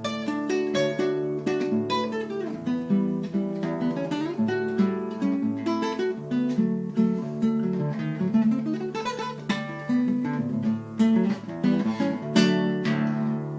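Acoustic guitar playing a choro: a quick run of plucked melody notes over a moving bass line.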